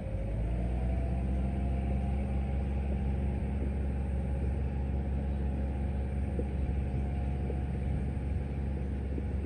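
Rice harvester's engine running steadily with a deep drone. A whining tone rides above it, rising slightly in pitch and loudness in the first second, then holding level.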